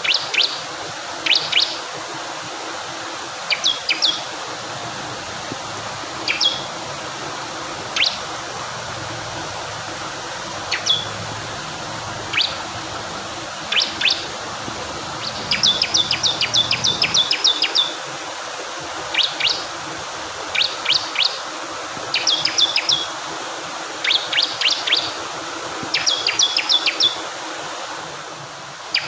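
Male bar-winged prinia (ciblek kristal) singing sharp, high chips in short clusters of two or three, with a couple of longer rapid trills. A steady rush of fast-flowing water runs underneath.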